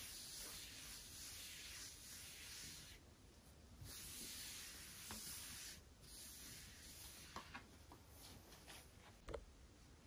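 Faint rubbing or scrubbing noise on a surface, in stretches of two or three seconds with short pauses between, and a soft knock near the end.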